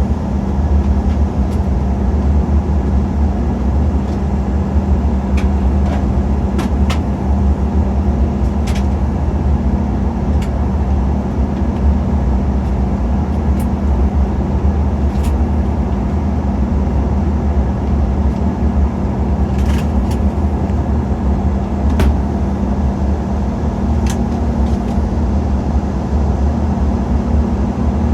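Steady cabin noise inside an Embraer E190/E195 airliner on approach: a constant low drone of engines and airflow with a steady hum, and a few faint clicks now and then.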